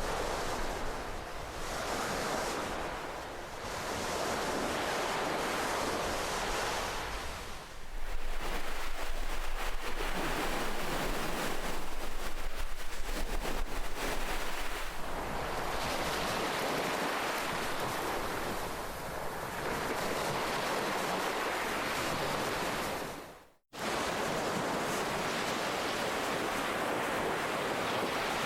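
Ocean waves breaking and washing on a shore, a dense rush that swells and ebbs every couple of seconds. About 8 seconds in it turns louder and fuller. Just before 24 seconds it fades out to a moment of silence and cuts straight back in.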